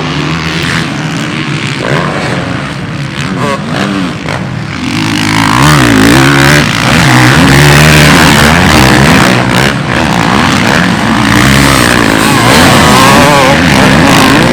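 Dirt bike engines revving up and down on a motocross track, with several overlapping engine notes rising and falling. They grow louder about five seconds in.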